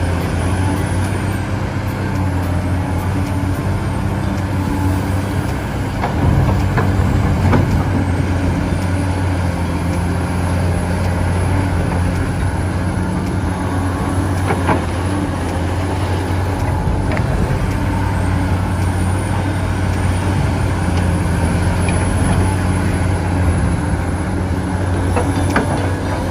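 Heavy machinery engine running steadily with a low drone. A faint high whine rises and falls several times, and there are a few short knocks.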